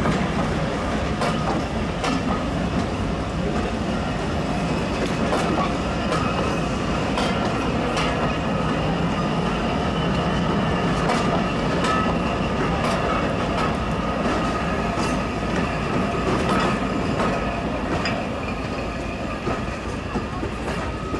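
Steam-hauled heritage train behind a BR Standard Class 4MT tank locomotive rolling past, its wheels clicking over the rail joints with a faint squeal of wheels on rail.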